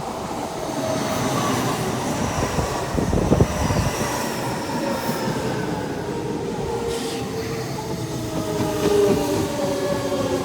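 Odakyu electric train running along the track, wheels rumbling on the rails, with a louder thump about three seconds in. A faint high whine carries through, and pitched tones slide slowly downward in the second half.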